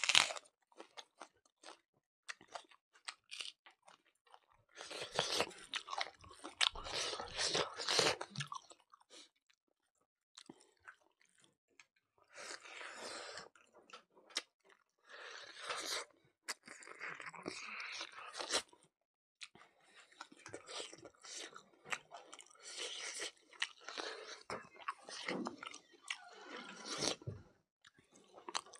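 Close-miked chewing and crunching of a mouthful of mutton curry and rice, wet mouth and bite sounds coming in irregular bursts with short pauses between them.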